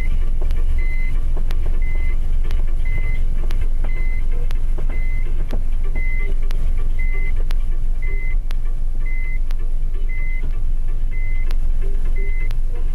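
Steady low engine and road rumble inside a car's cabin, with a short high warning beep repeating about once a second and scattered light clicks and knocks.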